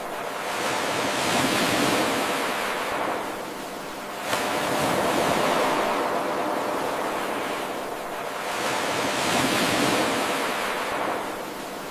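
Ocean surf: waves washing in and ebbing away, swelling and fading twice. It is an 8-second recording looped, and the sound jumps back up abruptly about four seconds in where the loop restarts.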